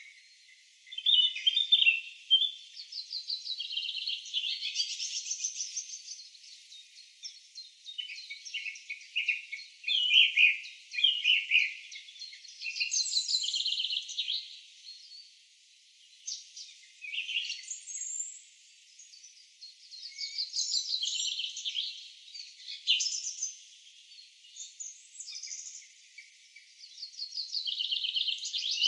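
Songbirds singing in a morning chorus: high-pitched chirps and fast trills from several birds, overlapping and coming in phrases with short pauses between.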